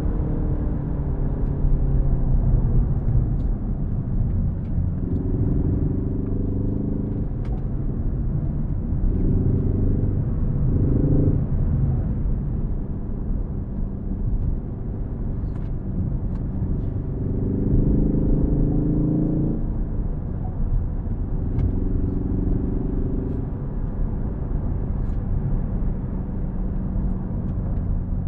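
Ford Focus ST engine and tyre rumble while driving at a moderate pace. The engine note swells and rises a little in several short spells of acceleration, between stretches of steadier running.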